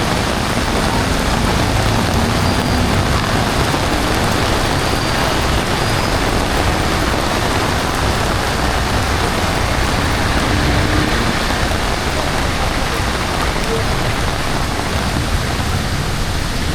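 Heavy rain falling steadily in a loud, even hiss, with a low rumble underneath.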